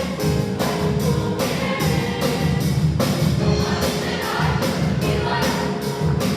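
A choir singing over an accompaniment with a steady beat.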